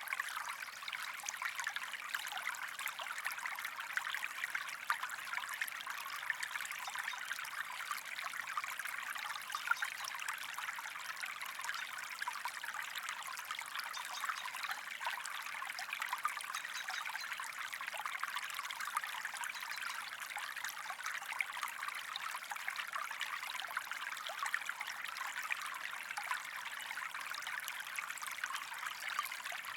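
Small stream of water running and trickling steadily, a continuous babbling with small splashes.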